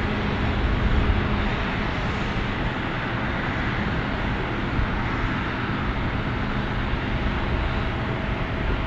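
Airliner engines running steadily: a constant rushing noise with a low hum underneath.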